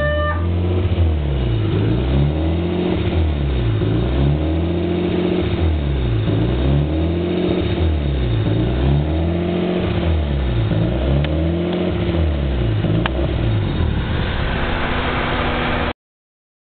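Nissan RB20DET turbocharged straight-six idling roughly, dropping back from a throttle blip at the start. Its speed then rises and falls in an even cycle about every second and a half: a hunting rough idle whose cause the owner has not yet found.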